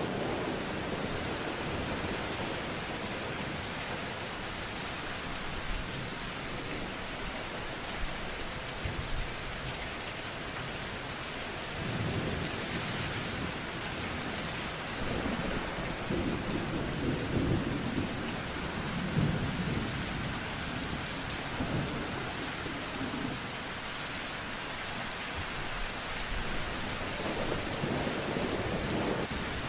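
Steady heavy rain falling, with low rolls of thunder rumbling through the middle of the stretch and once more near the end.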